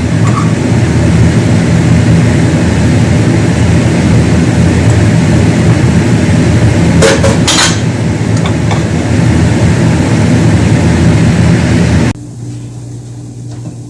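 A loud electric kitchen motor running steadily with a low hum, switched off suddenly about twelve seconds in.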